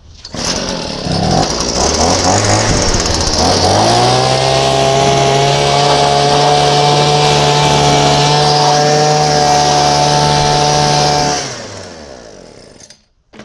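Leaf blower starting up, its pitch climbing over the first few seconds to a steady high running speed, then switched off near the end and winding down, blowing debris out from behind the radiator.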